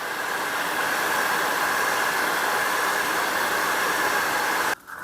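Electric heat gun running on its highest setting, a steady blowing hiss that cuts off suddenly near the end as it is switched off.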